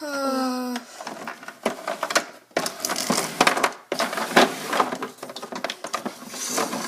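A short voice sound falling in pitch, then a long run of rustling, clicking and clattering from small plastic toys and props being handled and moved about.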